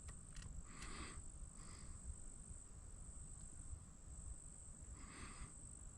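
Faint, steady high-pitched insect trilling, with a few brief soft noises about a second in and again near the end.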